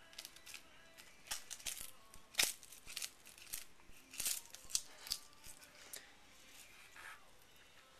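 A cat chewing crisp dried seaweed sheets: irregular dry crackles and crunches, several a second, loudest a little over two seconds in.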